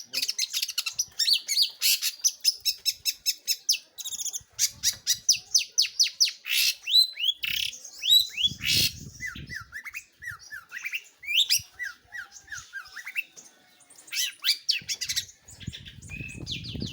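Long-tailed shrike (pentet/cendet) singing a loud, varied song: fast runs of short, sharp notes, then a string of quick downward-slurred whistles in the middle.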